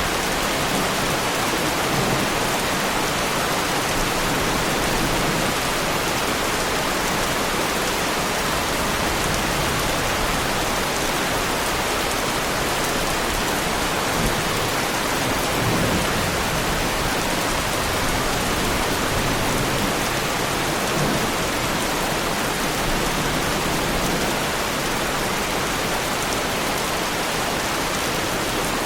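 Heavy rain falling steadily on the bodywork of a Lamborghini Huracan, an even, unbroken hiss of drops.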